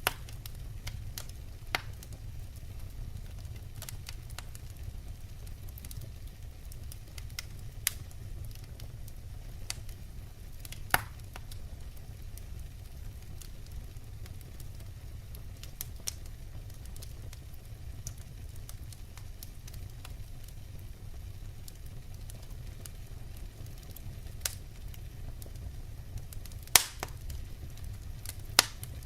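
Burning firewood crackling: a steady low rumble of flame with scattered sharp pops, the loudest about a third of the way in and two more near the end.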